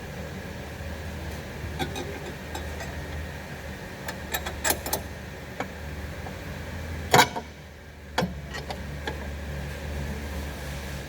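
Car-repair workshop sounds: a steady low hum with scattered metallic clicks and knocks of tools and parts, the loudest knock about seven seconds in.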